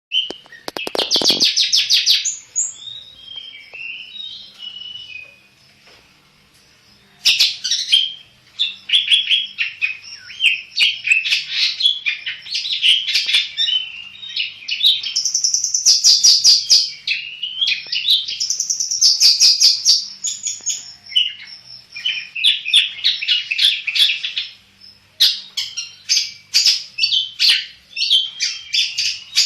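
Long-tailed shrike of the black-headed form singing at full tilt: a fast, dense run of high chattering and scratchy notes with quick trills. It pauses briefly a few seconds in, then carries on almost without a break.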